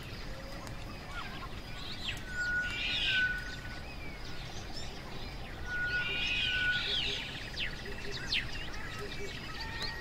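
Several wild birds calling: two bursts of quick chirping song, about two and a half and six seconds in, each with a level whistled note beneath, and a faint buzzy trill in the later part, over a steady outdoor hiss.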